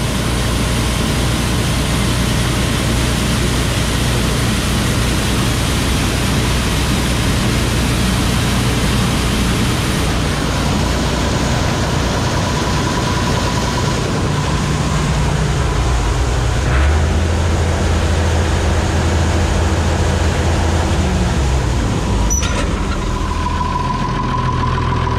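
Combine harvester running steadily while harvesting corn, with a continuous engine and machinery drone. Its pitch shifts about two-thirds of the way through.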